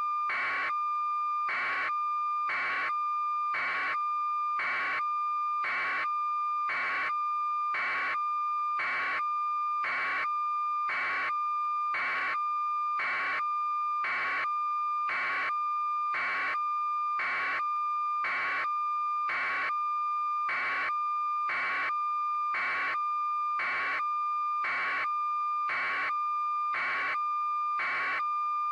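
An electronic alarm-like tone: a steady high pitch with regular beeping pulses over it, about one and a half a second, unchanging throughout.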